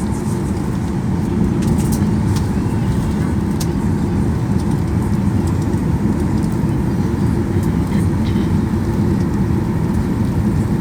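Jet airliner's engines running at takeoff power, heard inside the cabin as a steady low rumble during the takeoff roll, growing a little louder about a second and a half in, with a few light cabin rattles.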